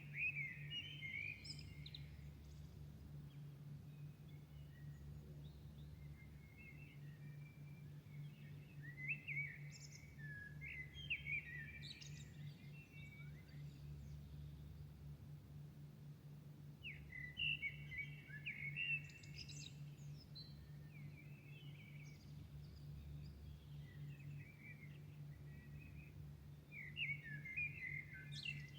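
Songbirds singing at dawn in short bursts of quick chirps and warbles every few seconds, over a steady low city hum.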